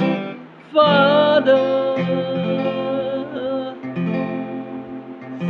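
Acoustic guitar strumming under a voice singing slow, drawn-out words, with one long wavering note held for a couple of seconds.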